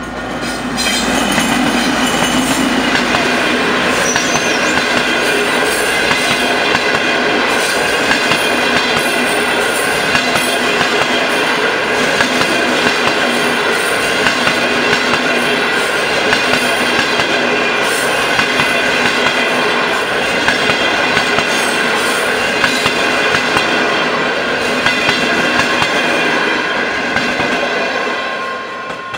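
Diesel-hauled passenger train passing a level crossing close by: the locomotive and then a long string of coaches running over the rails. It comes up loud about a second in and dies away near the end.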